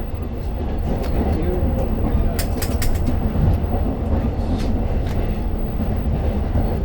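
Long Island Rail Road commuter train heard from inside the car while running: a steady low rumble of the train on the rails, with a quick run of sharp clicks and clacks about two and a half seconds in.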